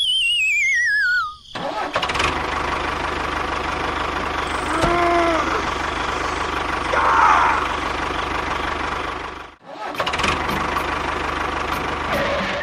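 A falling, wavering whistle sound effect, then a steady engine-like running noise with a low even pulse. It breaks off briefly near the end and starts again.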